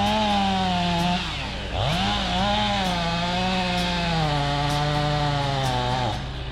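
Chainsaw revved up to full throttle twice, its pitch sagging step by step as it works in the wood, then falling away near the end.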